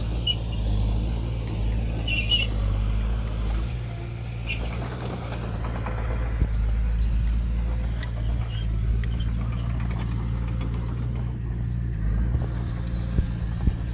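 Diesel engine of heavy earthmoving equipment running steadily under a low drone, with short metallic squeaks and clicks a few times.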